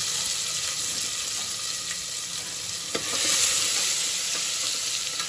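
Ginger-garlic paste and whole spices frying in hot oil in a pressure cooker: a steady sizzle, with a metal ladle scraping and clinking against the pan as it is stirred. The sizzle swells briefly about three seconds in.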